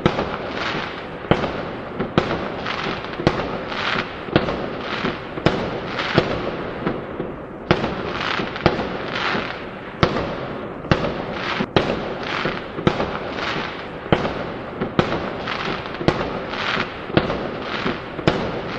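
Fireworks going off in a continuous barrage: sharp bangs about one or two a second over a steady crackle, with barely a pause between them.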